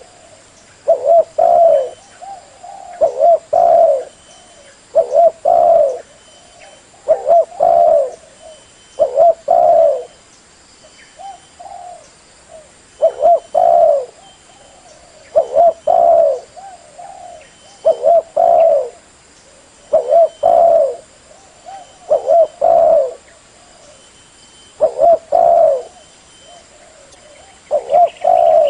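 Spotted dove (tekukur) cooing in repeated phrases of a few low notes, about one phrase every two seconds.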